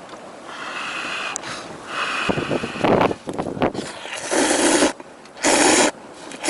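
A person slurping instant ramen noodles: several loud, breathy slurps with short pauses between them, the loudest in the second half.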